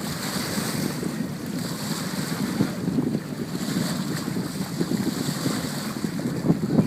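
Wind buffeting the microphone over the steady rush and splash of water under a sailing boat.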